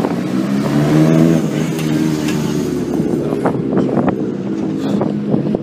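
Rally car engine running at high revs, its pitch wavering as the car is driven hard, fading after about three seconds.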